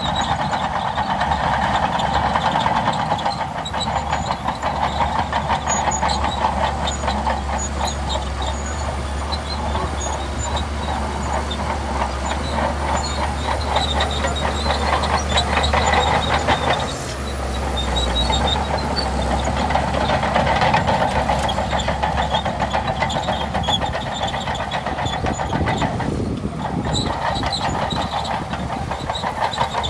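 Shantui DH17C2 crawler bulldozer working: its diesel engine running steadily under a dense, continuous clatter of steel tracks, with a brief dip about 17 seconds in.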